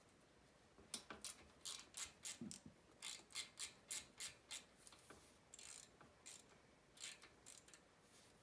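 Hand ratchet with an 8 mm socket clicking in short back-and-forth strokes, about three clicks a second, as it loosens a carburetor mounting bolt on a Honda CRF70 dirt bike. The clicks pause briefly midway, then resume.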